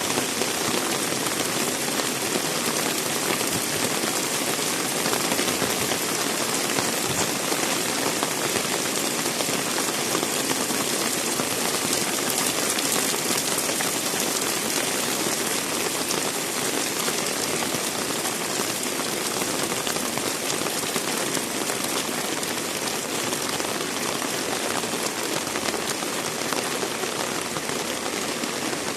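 Heavy rain pouring down steadily, a dense unbroken hiss with no let-up.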